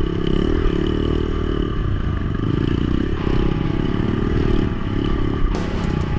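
Dirt bike engine running on a rough, muddy trail, its note rising and falling as the throttle is worked.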